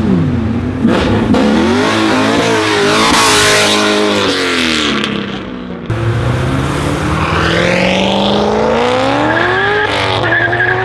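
Car engine revving hard with the tyres squealing, then accelerating away with the engine's pitch climbing steadily for several seconds.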